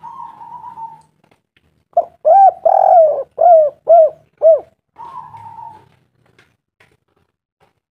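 Spotted dove cooing: a soft falling coo, then a loud run of about six short arched coos, then another soft coo. It is the vigorous calling used as a lure call to get wild doves to answer.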